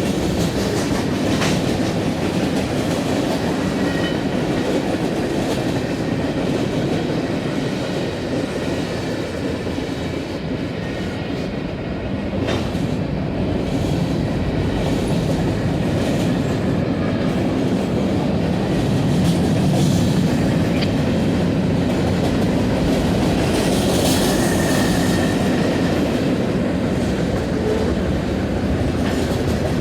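A long CSX freight train's cars rolling past, a steady rumble with the wheels clacking over the rail joints.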